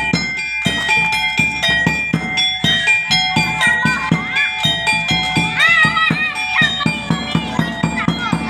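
Traditional Indonesian-style percussion music: drum strokes in a fast, steady beat under ringing metal gong-like tones.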